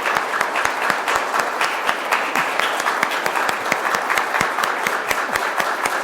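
A congregation applauding steadily, many hands clapping together in a reverberant chapel.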